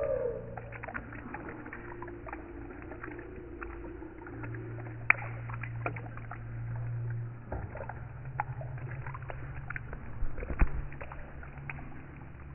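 Rain dripping: scattered sharp drop impacts over a steady low hum, with one sharp knock about five seconds in and a cluster of heavier impacts about ten seconds in.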